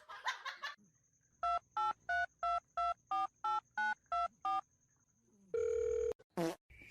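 Touch-tone telephone keypad dialing: about eleven quick two-tone beeps in an even run, like a full phone number being keyed in. Near the end comes a short steady buzzing tone and then a brief sliding sound.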